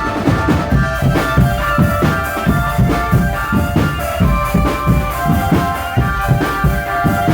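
Marching drum band playing: drums beat a steady rhythm under a sustained melody from the band's melodic instruments.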